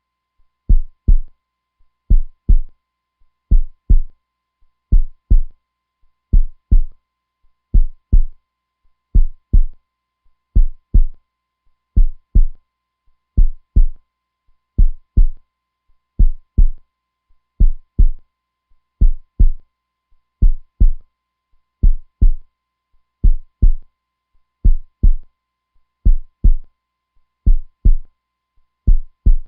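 Heartbeat sound: a slow, steady lub-dub, two low thumps close together, repeating about every one and a half seconds.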